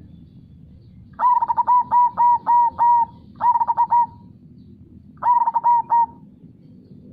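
Zebra dove (perkutut) cooing in three phrases of quick, clear repeated notes, the first the longest, over a steady low rush of flowing river water.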